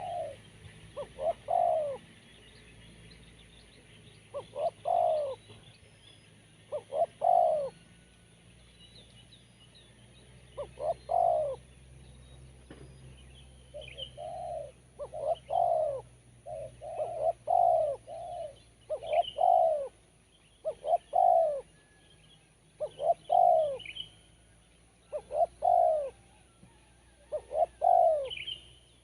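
Spotted dove (tekukur) cooing over and over in short phrases of a few notes each, a sharp, crisp voice; the phrases come more closely together in the second half. Faint chirps of small birds sound high above it.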